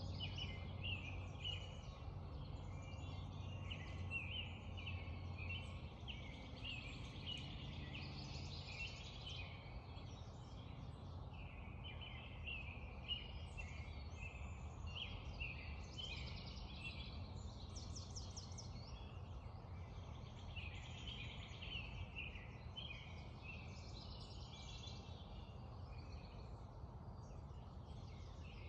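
Songbirds in a dawn chorus, several singing and calling over one another in quick chirps and trills, over a low steady rumble.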